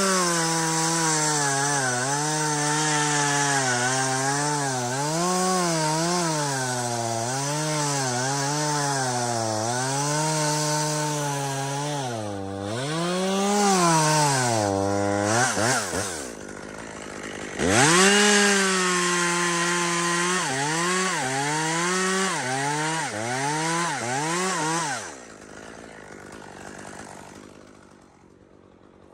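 Chainsaw cutting through spruce, its engine pitch dipping and rising repeatedly as the chain loads in the cut. It stops briefly about two-thirds of the way in, starts cutting again, then dies down near the end.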